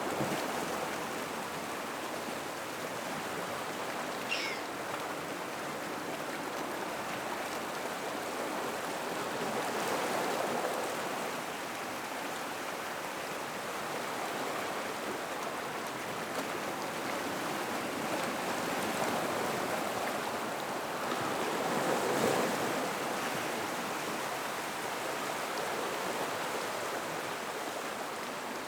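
Gentle ocean waves washing into a rock pool, a steady wash that swells twice. A brief high falling whistle sounds about four seconds in.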